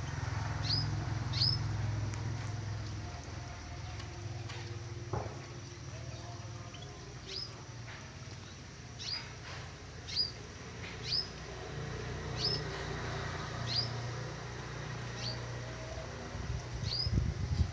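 A bird giving short, high chirps, about a dozen spread irregularly over the stretch, over a steady low rumble that gets louder and more uneven near the end.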